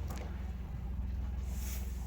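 A steady low hum, with a faint high hiss near the end.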